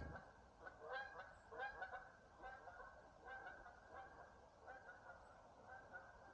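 Geese honking: many short, overlapping calls repeated over and over, faint, densest in the first couple of seconds and then thinning out.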